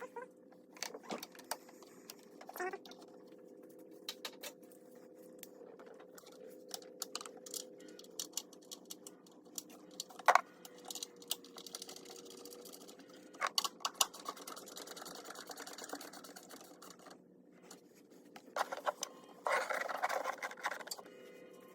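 Scattered sharp clicks and light metallic clatter over a steady hum, with a short burst of louder rustling noise near the end.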